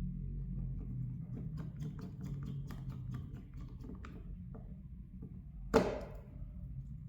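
Small clicks and taps of hand tools and phone parts being handled during a smartphone screen repair, then one louder knock about six seconds in, over a low steady hum.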